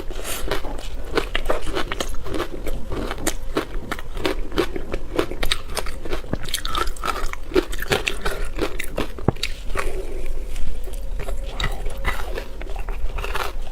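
Ice being bitten and chewed close to the microphone: a continuous run of sharp crunches and crackles as the ice breaks between the teeth.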